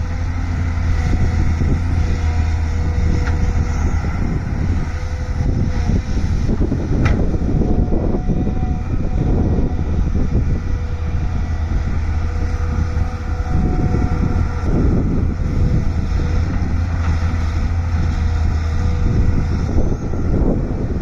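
Volvo excavator's diesel engine running steadily at working revs, a loud low drone with a few faint steady tones above it, swelling now and then as the machine works.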